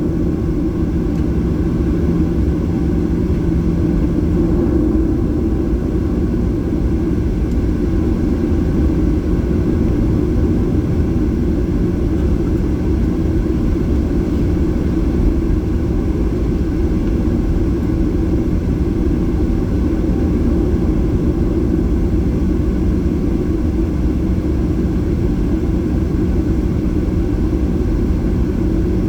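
Boeing 737-800 cabin noise: a steady, loud rumble of the CFM engines and airframe heard from a seat inside the cabin, with a low hum that fades about four seconds in.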